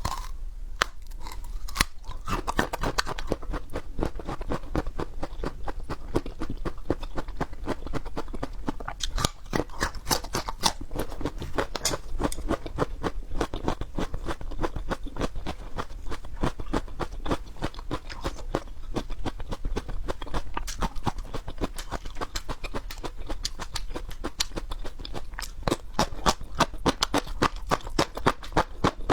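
Peppers being bitten and chewed, a dense, steady run of crisp crunches and crackles.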